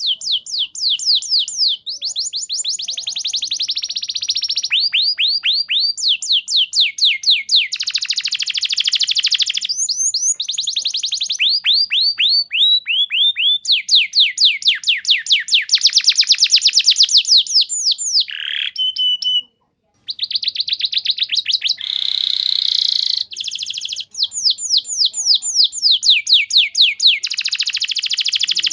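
Domestic canary singing long, loud rapid trills: fast runs of repeated downward-sweeping chirps that change pattern every second or two, with a brief break a little past two-thirds of the way through.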